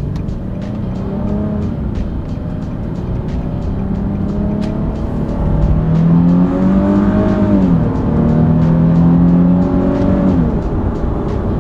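Nissan 370Z Nismo's naturally aspirated V6 pulling under acceleration, its note rising. It drops sharply twice, about two-thirds of the way in and again near the end, as the 7-speed automatic shifts up. A faint, regular ticking runs underneath.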